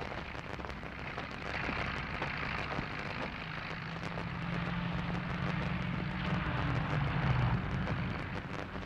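Motor vehicle engine running, a steady hum with a low drone that comes up a few seconds in and fades near the end.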